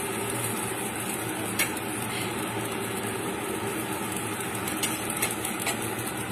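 Dosa batter sizzling in a hot frying pan on a gas stove, a steady hiss, with a sharp click of a metal spoon on the pan about a second and a half in and a few lighter clicks near the end.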